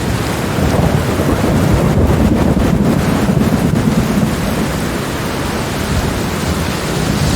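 Steady heavy rain with a long, deep roll of thunder that swells in within the first second and rumbles on through the rain.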